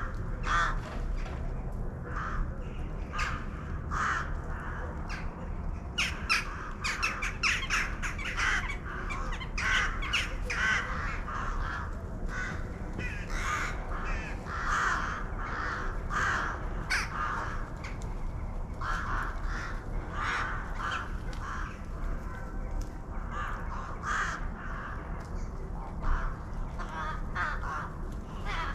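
Crows cawing repeatedly, many short harsh calls overlapping, busiest in the middle stretch, over a steady low background rumble.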